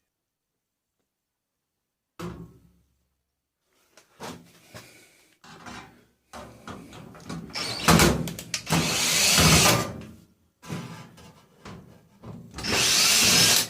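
Metal parts of a tumble dryer being knocked, scraped and pulled apart during stripping for scrap. The clanks and scrapes are irregular, with two longer loud noisy stretches, one in the middle and one near the end.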